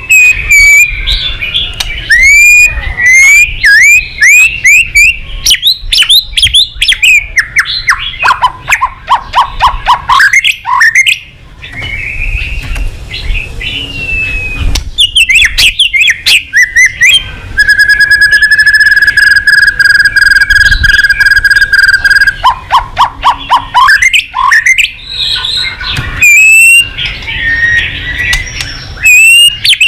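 White-rumped shama (murai batu) singing loudly: a varied song of sweeping whistles and fast runs of repeated notes, typical of a shama in full song with mimicked phrases. About halfway through it holds one steady whistle for about five seconds.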